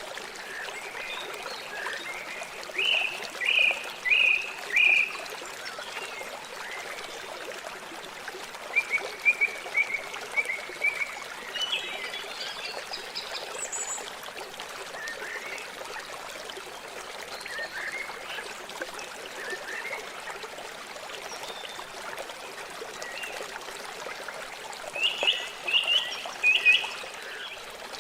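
River water flowing with a steady rushing trickle. Birds call over it in short runs of repeated notes: a few seconds in, again around the middle, and loudest near the end.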